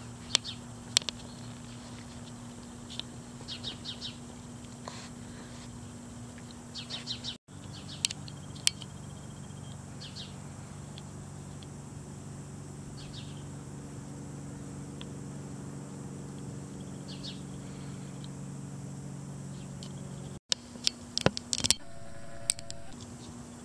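Small birds chirping in short, high calls at scattered intervals over a steady low hum, with a few sharp clicks near the end.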